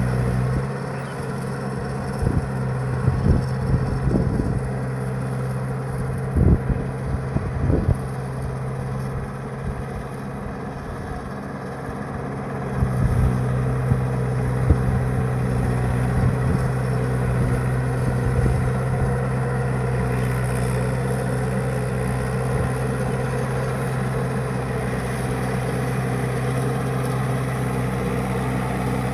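Mahindra 585 tractor's diesel engine running. Its strong low note weakens for about twelve seconds, with several sharp knocks in that stretch, then comes back and holds steady.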